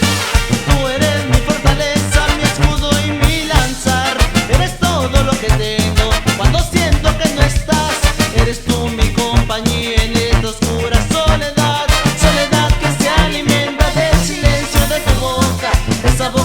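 Mexican banda brass band playing an instrumental passage: a brass melody over a steady, pulsing bass beat.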